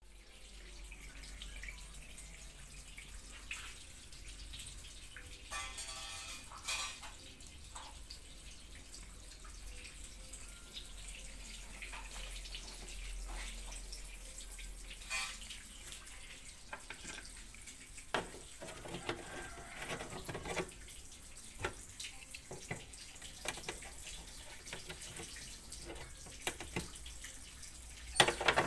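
Water trickling and dripping, with scattered light clicks and knocks and a louder knock near the end.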